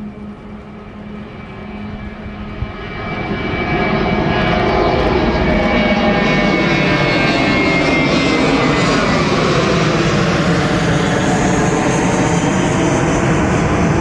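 Airbus A320-232 jet airliner's IAE V2500 turbofan engines during takeoff: the sound swells over the first few seconds into a loud, steady jet noise with whining tones that slide down in pitch as the aircraft goes past.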